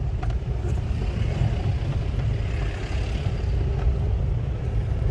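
Motor vehicle driving along a road: a steady low engine and road rumble.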